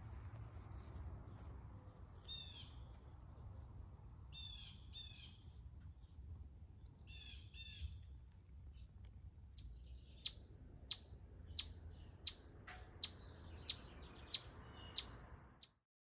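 Birds calling: a few short trilled chirping phrases, then a run of about nine sharp, loud chirps, roughly three every two seconds, which stops abruptly. A low rumble runs underneath.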